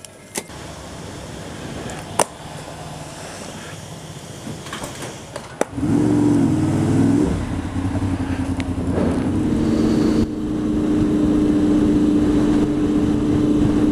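Honda VFR800's V4 engine, quiet at first, then opening up sharply about six seconds in with a wavering note as it accelerates. It settles into a steady drone at cruising speed.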